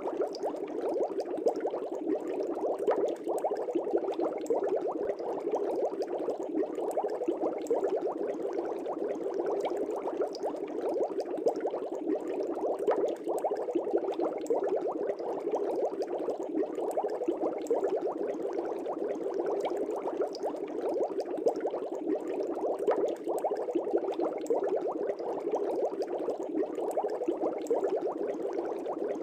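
Air bubbles streaming through a fish tank, a steady dense bubbling that does not let up.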